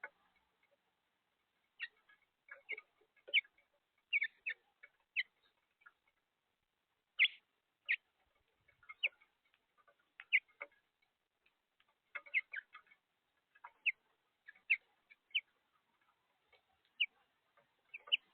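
House finches at a feeder: short, sharp chirps and clicks, irregular and spaced by brief gaps, a few in quick clusters.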